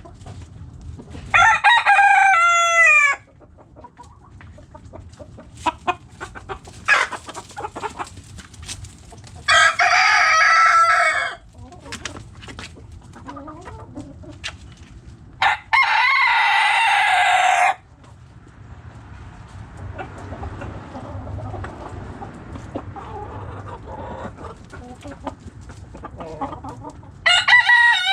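Backyard chickens: roosters crow four times, each crow a loud pitched call about two seconds long, the first about a second in and the last near the end. Between the crows, hens cluck softly and scattered.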